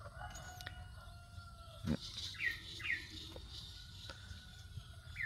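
Faint bird chirping: two short chirps falling in pitch about halfway through, with thin steady high calls behind them and a soft click just before.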